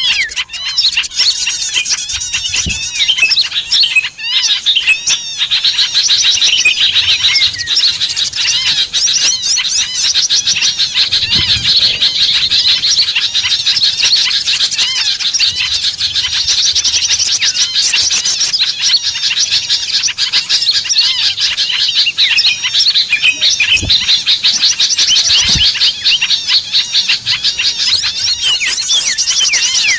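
Dense, unbroken chatter of many small songbirds chirping and twittering over one another, high-pitched and busy: a bird-lure (pikat) recording meant to draw small birds in.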